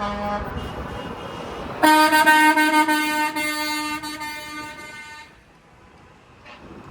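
Truck air horn blowing one long, loud blast of about three and a half seconds, starting about two seconds in and cutting off sharply; a fainter horn sounds at the very start.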